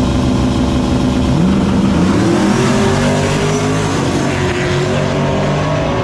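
Pickup truck drag-race engines at full throttle, one of them an S10 with its catalytic converter removed; the engine pitch climbs sharply about a second in, then holds at high revs.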